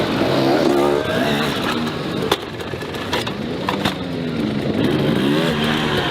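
Enduro dirt bike engine revving, its pitch rising and falling twice as the bike accelerates, with a few sharp clicks about halfway through.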